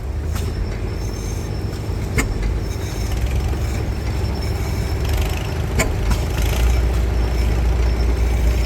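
Old ten-horsepower stationary engine from 1919 running with a steady low rumble. The rumble grows louder about five seconds in, and a sharp click comes twice, a few seconds apart.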